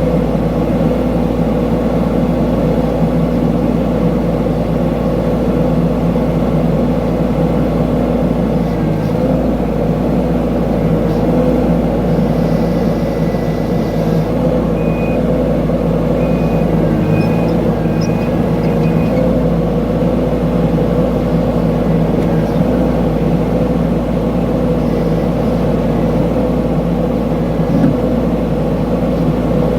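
Mini excavator's diesel engine running steadily under work. About halfway through comes a short run of about six brief high-pitched beeps.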